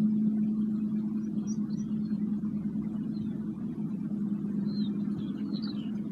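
A low gong tone ringing on and slowly fading, with birds chirping faintly in the background.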